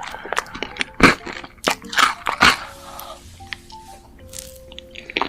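Close-miked crunchy bites and chewing of food, with the loudest crunches about a second and two and a half seconds in. Soft background music with held notes comes through in the second half.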